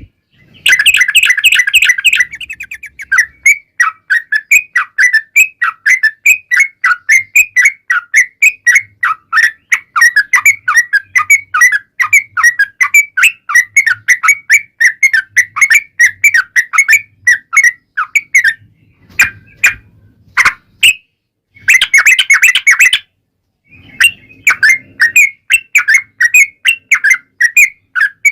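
Yellow-vented bulbul (trucukan) singing a long, fast run of bubbling, chattering notes many times a second. The run breaks off briefly twice in the second half, with a louder, denser outburst at the start and another near the end.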